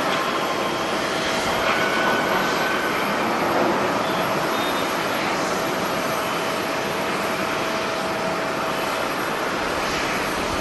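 Jet airliner engines running, a steady rushing noise with a faint, even whine held through it.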